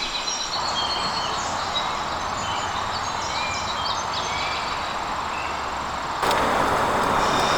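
Forest ambience: a steady hiss with scattered short, high chirps of small birds. The hiss turns louder and fuller about six seconds in.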